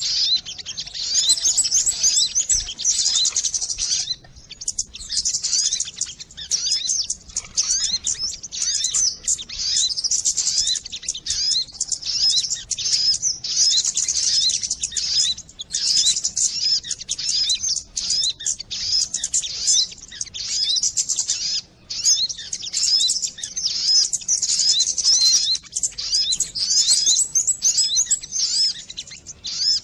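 Sogon bird calls played as a luring track: rapid, high-pitched chirping trills repeated almost without a break, with a couple of brief pauses.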